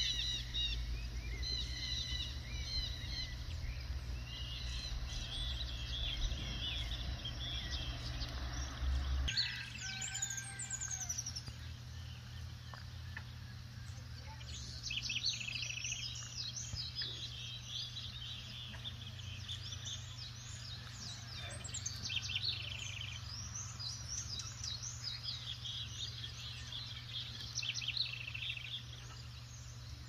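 Birds chirping and singing in rapid, high twittering phrases that come and go. A low rumble underneath cuts off abruptly about nine seconds in.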